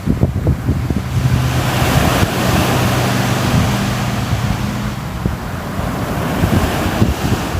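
Sea waves washing ashore, with wind buffeting the microphone in low gusts. A faint low steady hum runs from about one second in to about five seconds in.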